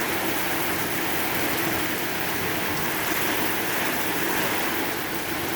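Steady thunderstorm rain falling and splashing on surfaces, an even hiss with no thunderclap.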